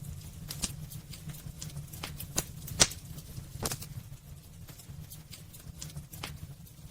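Wood fire burning in a fireplace: irregular crackles and sharp pops of the burning logs over a steady low rumble of the flames. The pops are loudest in the first four seconds.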